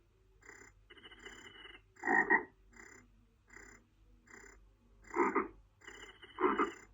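Frogs croaking in a chorus: short calls repeating about once a second, with three louder croaks standing out, the first about two seconds in and two more near the end.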